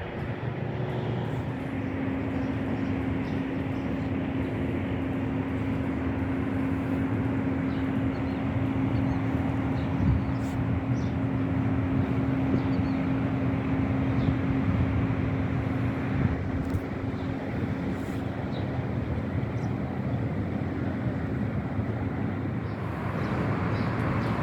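Steady road-traffic noise, with a steady low hum running under it for most of the stretch and fading out near the end.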